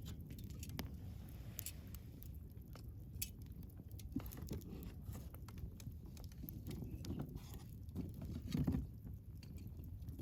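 Wood campfire burning: scattered sharp crackles and pops over a steady low rumble of flame, with a brief louder low surge about three-quarters of the way through.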